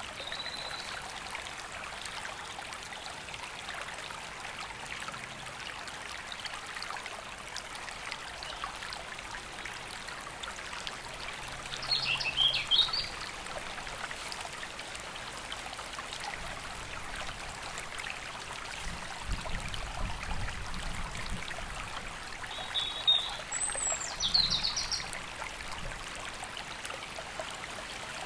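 River flowing steadily, with birds in the trees above singing short calls and phrases: one near the start, one about halfway through, and a couple more around three-quarters of the way through.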